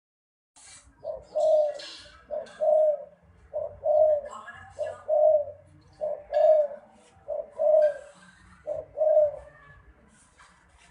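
Dove cooing: seven two-note coos, each a short note followed by a longer, fuller one, repeated about every 1.3 seconds.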